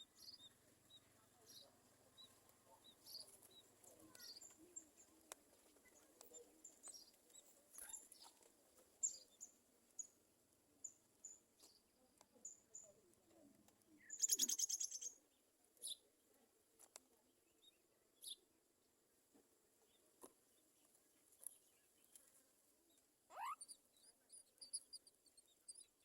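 Faint, high, short chirps from myna birds at the nest, scattered throughout. A louder, rapid chattering call lasts about a second midway, and a quick rising call comes near the end.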